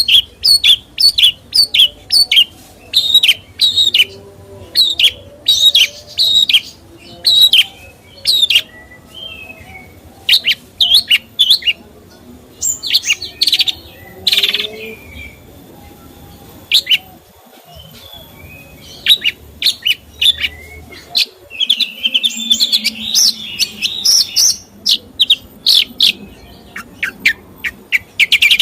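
A songbird singing runs of sharp, rapid chirps and whistled notes, with a busier trilling stretch about three-quarters of the way through.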